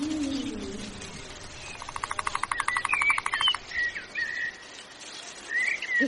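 Birds calling: a low, falling hoot in the first second, then a fast rattling trill about two seconds in, followed by short, high chirps.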